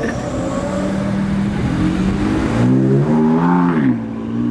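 A performance car's engine pulling away and revving. A steady engine note climbs in pitch, drops sharply near the end, then climbs again.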